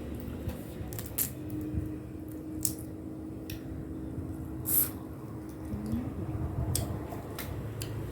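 Close-up eating and food-handling sounds over cooked crab papaya salad: wet squelching with a few sharp clicks, the loudest a little past the middle.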